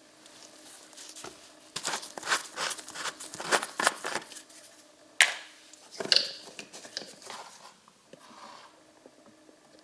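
Rustling and crinkling handling noise with short scrapes and clicks, one sharp click about five seconds in, then trailing off.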